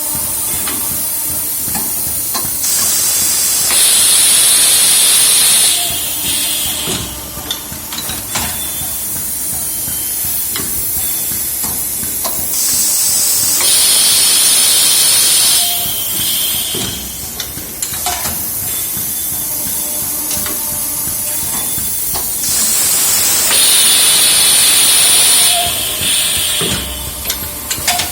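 An automated engine-valve loading and unloading machine at work: a steady hiss, with a louder high hissing blast lasting about three seconds three times, roughly every ten seconds. Short clicks and knocks fall between the blasts.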